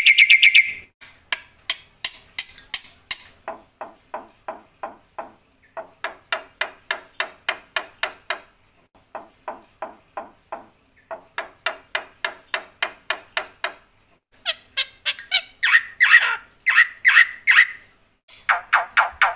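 Black-winged myna (jalak putih) singing loudly: long runs of rapid, even, rattling notes, about five a second, broken by short pauses. Louder, harsher squawking calls start about three-quarters of the way in.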